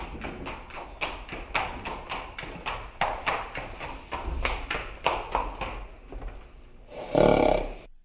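Footsteps on a hard surface, a steady walking pace of about three steps a second. Near the end comes a louder, longer sound with a ringing tone, then everything cuts off suddenly.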